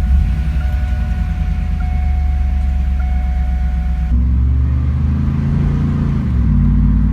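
Rebuilt 1997 Camaro Z28's LT1 V8 firing up and running at a fast idle; about six seconds in the engine note drops as the idle settles. A thin steady electronic tone sounds over it until about four seconds in.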